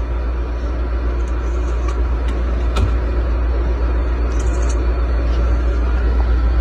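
A steady low rumble with an even noise over it, with a faint tick about three seconds in.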